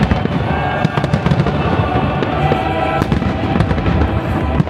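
Fireworks bursting in quick succession, many sharp cracks and bangs, over music playing at the same time.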